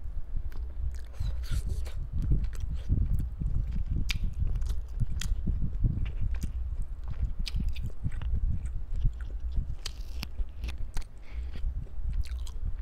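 Close-miked mouth sounds of a person biting a piece of barbecued pork off a skewer and chewing it, with many small sharp clicks throughout.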